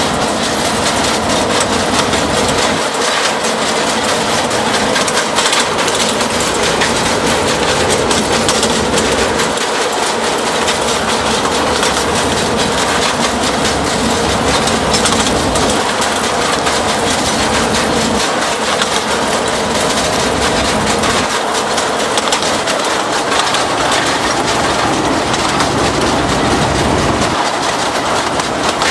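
Loaded narrow-gauge freight train under way, heard close to the coupling between the TU7 diesel locomotive and the first peat wagon: a steady, loud clatter of wheels on the track and rattling of the coupler and wagons.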